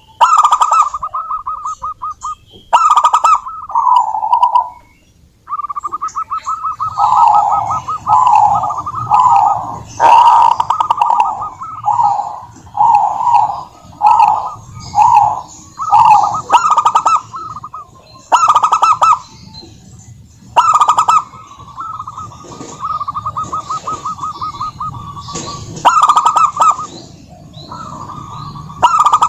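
Zebra doves (perkutut) cooing: phrase after phrase of rapid staccato notes, every second or two, with calls overlapping at times.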